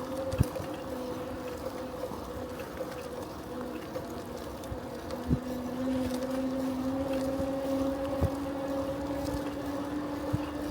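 Riding sound from a bicycle: a steady hum and whine from the moving bike, with a lower tone that rises slowly through the second half as it speeds up, and a few short knocks from bumps.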